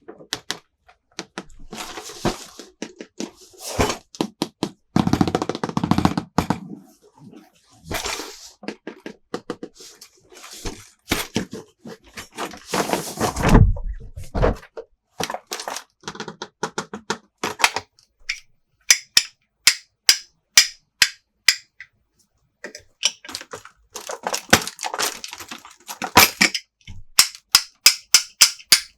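Plastic toy playset pieces and their packaging handled close up: sharp taps and clicks mixed with bursts of rustling, the longest and loudest rustle a little before the middle. After the middle come quick runs of light clicks, about five a second.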